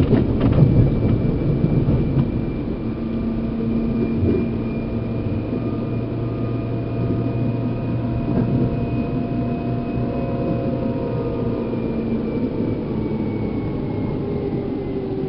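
Running sound inside a Seibu New 2000 series electric train's motor car: steady rumble of wheels on rail under the traction motors' pitched tones, which begin to slide slowly downward about ten seconds in.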